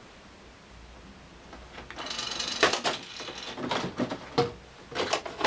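Plastic clattering, scraping and clicking as a VHS cassette is worked out of the cassette compartment of a top-loading VCR. It starts about two seconds in as a string of irregular knocks and rattles.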